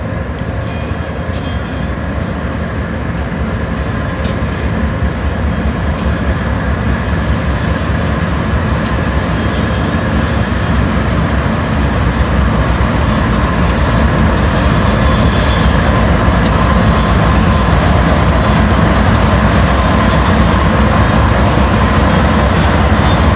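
BNSF freight train approaching, its diesel locomotives and rolling wheels making a steady rumble that grows gradually louder.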